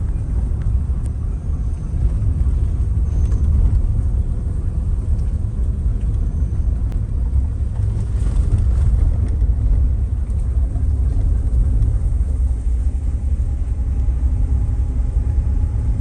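A car driving along, a steady low rumble of engine and tyres.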